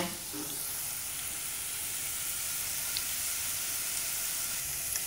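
Chopped onion, beef bone marrow and butter sizzling gently in a pot over low heat, a steady even hiss: the onion softening slowly and the marrow melting into the fat.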